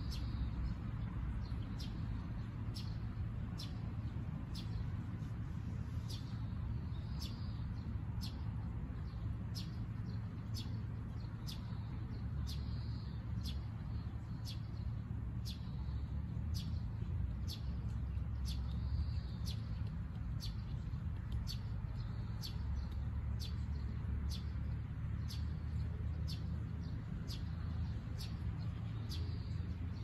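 Birds chirping: short, sharp high calls about once a second and a few longer calls, over a steady low rumble.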